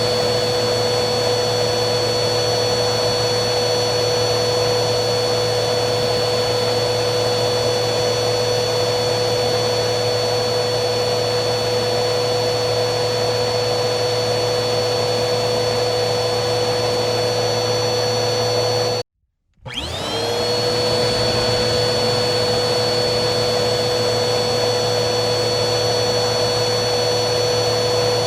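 Vacuum cleaner motor running steadily with a high whine over a low hum. About two-thirds of the way through it cuts out for half a second, then comes back with its pitch rising as the motor spins up to speed again.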